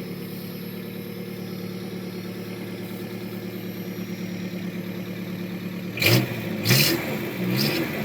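1986 Mazda B2000's carbureted four-cylinder engine idling steadily on choke after a cold start, running a bit rich. About six seconds in, a few short louder sounds break in over the idle.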